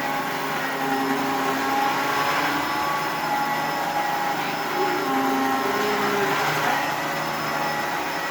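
Dyson bagless upright vacuum cleaner running steadily on carpet: a constant motor whine over the rush of suction, the lower tones wavering slightly as it is pushed back and forth.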